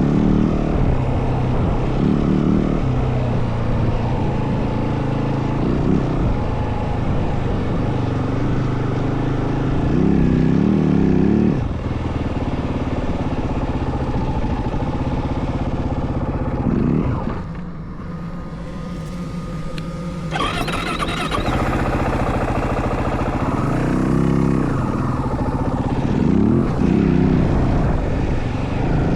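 Yamaha WR450F dirt bike's single-cylinder four-stroke engine under way off-road, revving up and dropping back again and again as the throttle is worked, with a quieter stretch of easing off about two-thirds through.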